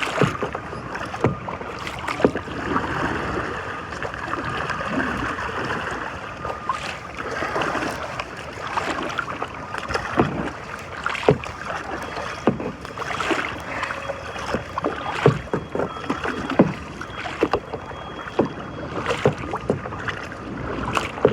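A kayak moving through the water: steady splashing and lapping, with many irregular knocks and splashes from paddle strokes against the water and hull.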